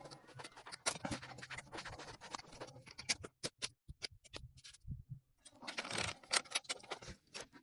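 Metal hand tools working on the copper refrigerant line flare fittings: a run of sharp clicks and scraping, a short pause a little past the middle, then a denser stretch of clicking and scraping.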